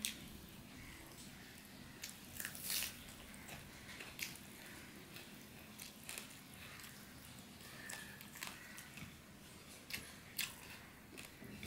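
Close-miked chewing and lip-smacking of a mouthful of rice and curry eaten by hand, heard as many short, sharp clicks with a louder cluster about two and a half seconds in. Fingers squish through the rice on the plate between mouthfuls.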